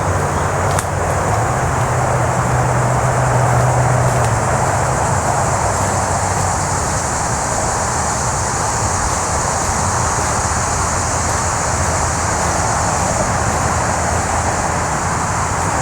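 Steady traffic noise from the nearby State Route 315 highway, with a low engine drone over it for the first four seconds or so.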